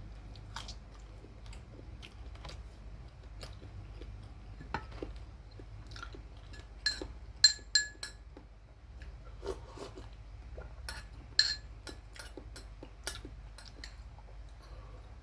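Eating sounds: utensils tapping and clinking against dishes, with a few sharp ringing clinks around the middle and again a little later, among quieter chewing and small taps, over a steady low hum.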